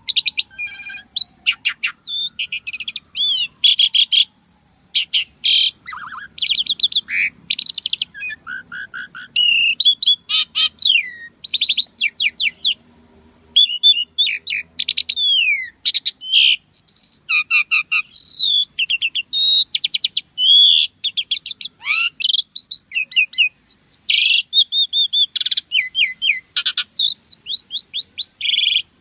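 Asian pied starling (jalak suren) singing a long, busy song: a rapid, ever-changing string of whistles, rising and falling glides and fast rattling chatter, with only brief gaps between phrases.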